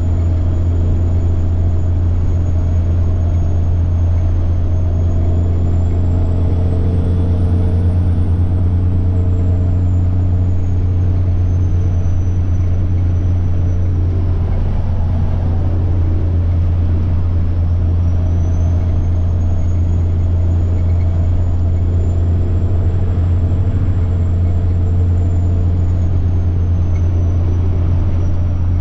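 Semi truck's turbocharged diesel engine running steadily under way, a deep constant drone. Over it a thin, high turbo whine rises and falls twice.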